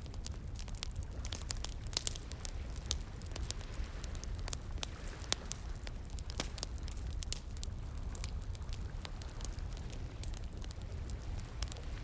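Wood fire crackling, with many sharp irregular snaps and pops over a steady low rush of flowing water.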